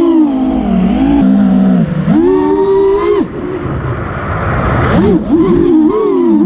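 Motors and propellers of a 5-inch FPV racing quadcopter whining, the pitch climbing and falling again and again as the throttle is worked.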